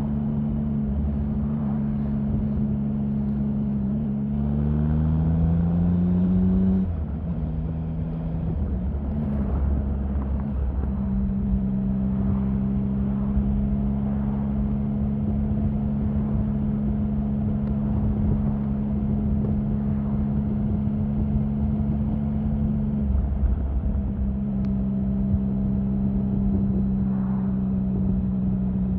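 Triumph Sprint 1050's three-cylinder engine running at a steady note. About four seconds in, the pitch climbs for a few seconds and then drops abruptly. The note then holds steady again, with a brief dip near the end.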